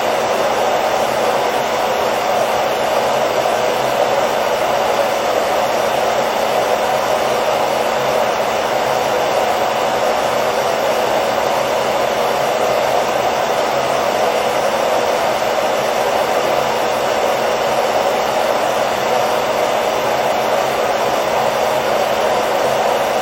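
Hair dryer running steadily: a constant, even whoosh of blown air with a faint steady hum under it, never changing in pitch or level.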